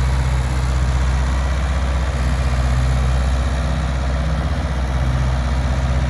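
Ford tractor engine running steadily at a constant speed while it mows grass with a rear-mounted grass cutter; a loud, even drone with no change in pitch.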